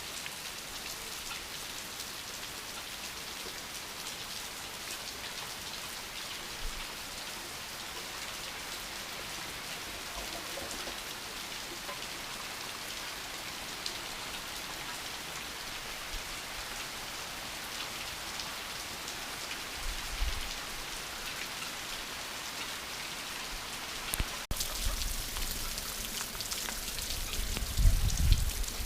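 Steady rain falling, with no thunder; about 25 seconds in it gets louder, and a few low thumps come near the end.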